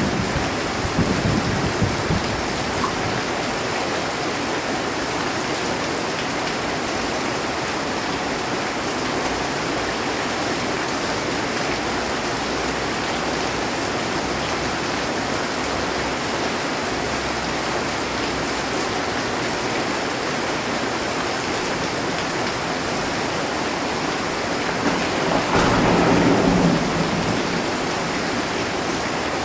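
Heavy rain falling steadily on a metal roof. A thunder rumble dies away in the first couple of seconds, and a louder roll of thunder swells and fades about 26 seconds in.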